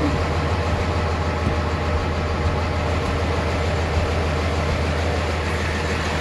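Kenworth T880 truck's diesel engine idling with an even, low drone.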